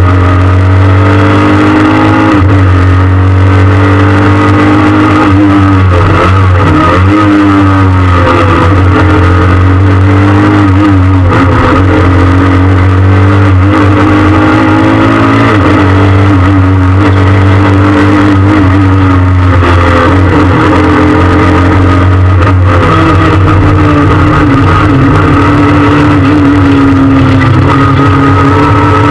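Loud in-cabin sound of a Peugeot 306 S16 rally car's 2.0-litre 16-valve four-cylinder engine driven hard. Its pitch rises and falls over and over as it revs through the gears and lifts off, over a steady low drone.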